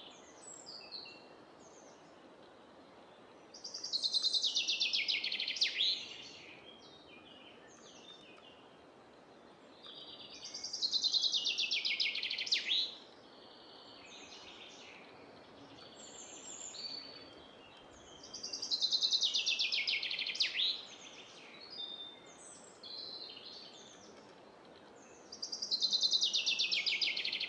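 Common chaffinch singing: four songs, each a falling run of rapid notes about two and a half seconds long, repeated every seven seconds or so. Softer notes of other birds fill the gaps.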